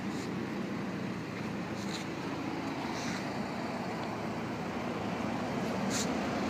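2008 Audi TT 2.0T's turbocharged four-cylinder engine idling with a steady, very quiet hum. A few faint clicks come over it.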